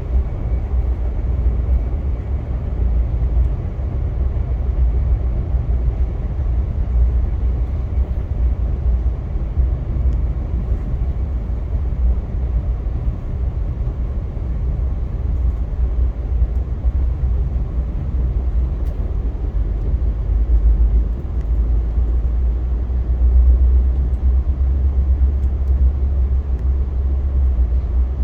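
Via Rail passenger train running along the track: a steady, deep rumble with an even wash of running noise above it.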